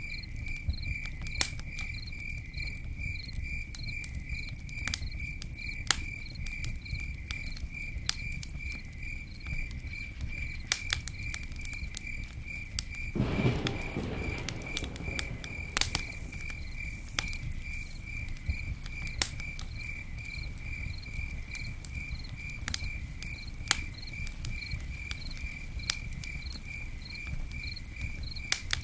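Wood campfire crackling, with irregular sharp pops and snaps over a low rumble, and a brief louder rush about 13 seconds in. Crickets chirp steadily behind it, about twice a second.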